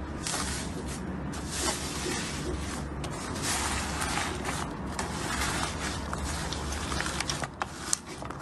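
Slime being squished and worked by hand: a continuous sticky crackling with many small clicks and pops, over a steady low hum.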